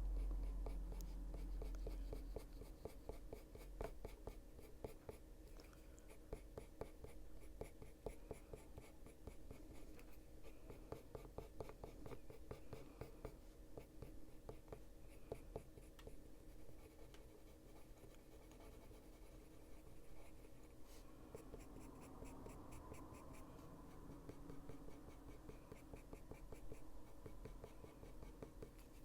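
Caran d'Ache Luminance coloured pencil scratching on paper in many rapid, short strokes, shading in a dark area. A low rumble sounds in the first two seconds.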